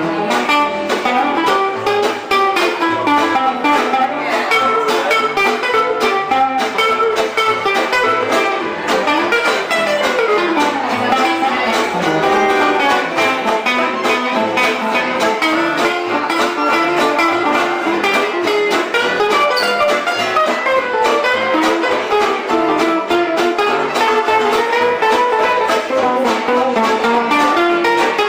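A live band playing, with a plucked guitar prominent and busy melodic lines running throughout, including a few sliding notes about ten seconds in.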